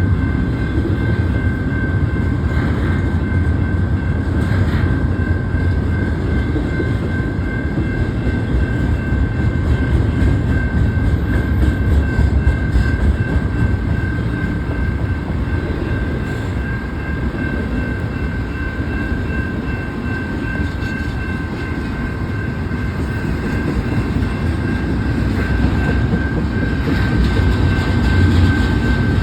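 Double-stack freight cars of a BNSF train rolling past on the rails, a continuous heavy rumble with a thin, steady high-pitched tone over it.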